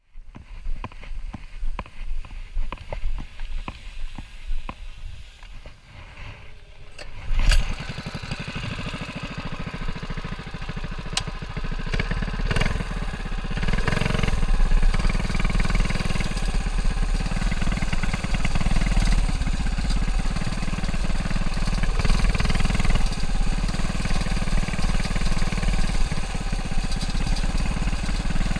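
Lil' Rascal mini bike's small single-cylinder engine: several seconds of irregular knocks and clicks, then the engine catches with a sudden loud burst about seven seconds in and settles into a steady run, growing louder a few seconds later.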